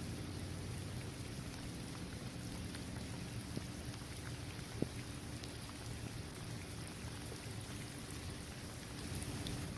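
Steady rain falling on a paved basketball court, trees and grass, with scattered single drops tapping and one sharper tap about halfway through.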